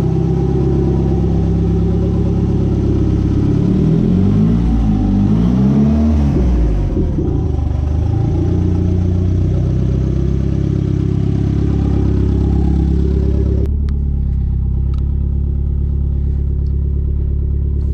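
Chrysler Conquest/Mitsubishi Starion's turbocharged G54B four-cylinder engine running. It revs up and eases off twice a few seconds in, then holds a steady note. About fourteen seconds in, the sound turns abruptly duller.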